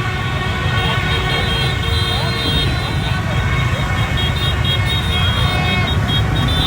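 Dense street traffic of motorbikes and cars with many horns blaring at once and people shouting: celebratory honking after a football win.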